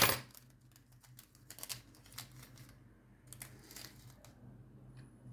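Small plastic bags crinkling, with scattered soft clicks as diamond-painting crystals are handled and put into a storage container. One louder rustle comes right at the start.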